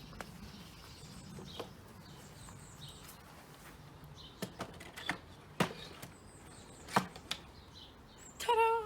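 A handful of sharp knocks and clicks as the roof of a garden bird feeder is fitted back on, with small birds chirping faintly in the background. A brief pitched sound comes near the end.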